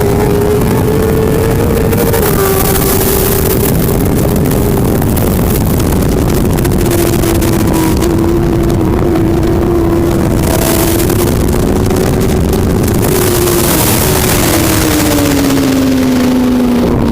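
Racing motorcycle engine running hard at high revs, its pitch holding fairly steady, then falling over the last few seconds as it comes off the throttle, with wind noise swelling and fading.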